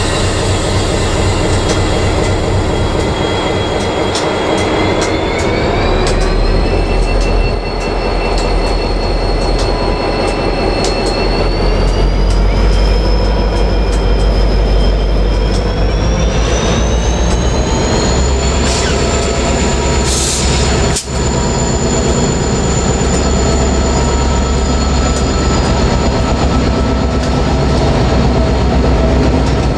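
Diesel freight locomotive hauling its train away under power, with a heavy low engine drone and a high whine that climbs in pitch in steps as it gathers speed. The wagons run past throughout, and there is one sharp click about two-thirds of the way through.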